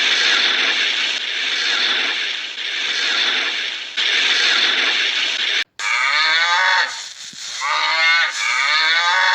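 Cattle mooing: a long, rough, breathy call first, then after a short break about three pitched moos that bend in pitch.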